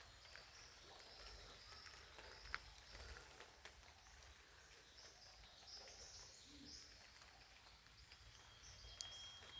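Faint forest ambience with distant birds calling in short high notes, and a sharp click about two and a half seconds in.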